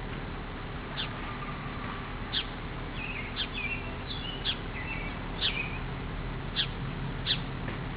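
Birds chirping: short, sharp chirps about once a second over a steady low background noise.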